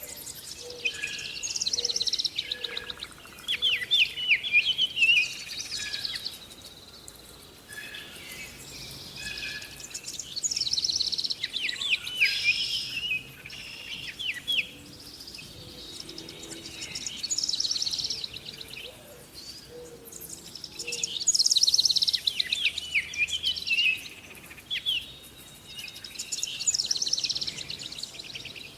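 Songbirds singing: repeated phrases of rapid high trills and quick down-slurred chirps, each a second or two long with short pauses between, over a faint steady background hiss.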